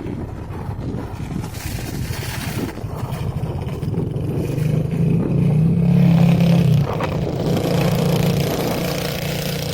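A motor vehicle's engine running with a steady low hum over a noisy rumble. It grows louder toward the middle, then drops back a little before 7 seconds.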